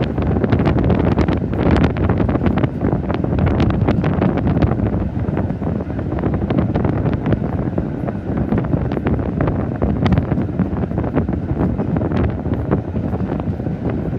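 Wind buffeting a microphone held out of a moving railway carriage's window, over the steady running noise of the carriage on the track, with irregular clicks throughout.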